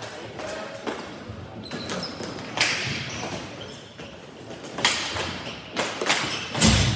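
Ball hockey play: irregular sharp clacks and thuds of sticks, ball and boards. The loudest hits come about two and a half seconds, five seconds and near seven seconds in.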